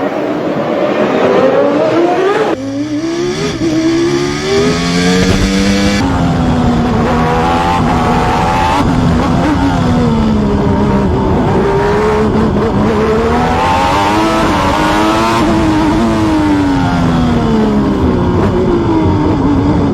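Formula One race car engine heard onboard, revving high and climbing through the gears, dropping back as it brakes and climbing again, over and over. The sound changes abruptly a few times.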